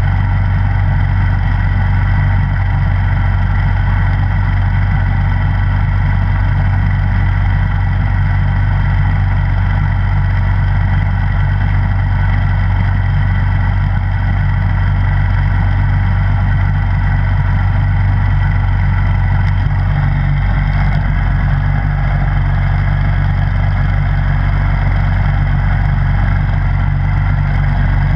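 Snowblower engine running steadily at a constant speed, its low hum shifting slightly about twenty seconds in.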